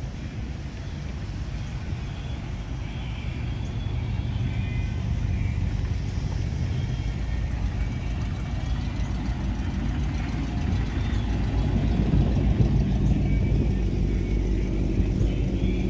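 Classic cars driving slowly past one after another, their engines rumbling low. The rumble grows louder in the second half as a late-1970s Chevrolet Corvette's V8 pulls close.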